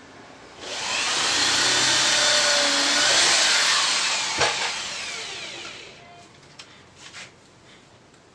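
An electric power tool starts up, runs steadily for about three seconds, then winds down with a falling whine. A sharp knock comes in the middle, and a few light knocks follow near the end.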